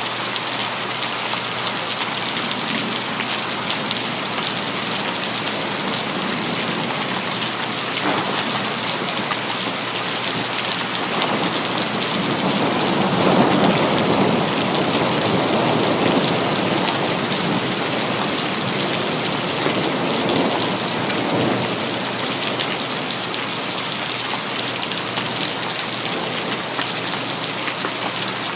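Steady rain falling, with a rumble of thunder that swells from about eleven seconds in and dies away some ten seconds later.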